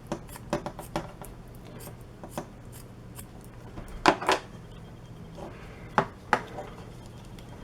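Scissors cutting through fabric: a series of short, sharp snips at uneven intervals, the loudest pair about four seconds in and another pair about six seconds in.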